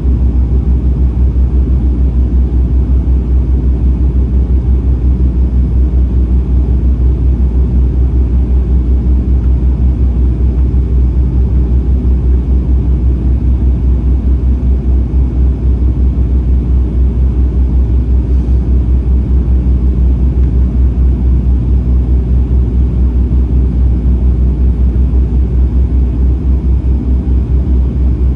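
Airliner cabin noise in flight during the approach: a steady, loud, low rumble of engines and airflow heard from inside the cabin, with a fast, even throb.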